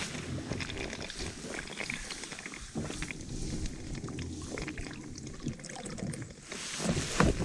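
A man chugging a can of beer, gulping and swallowing in uneven swallows.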